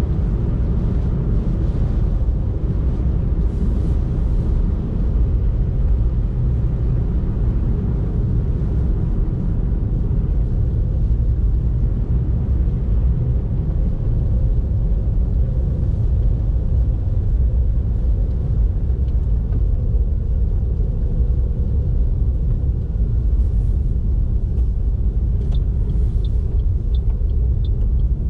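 Car driving, with a steady low rumble of engine and road noise. Near the end a run of short, evenly spaced ticks starts, about two a second.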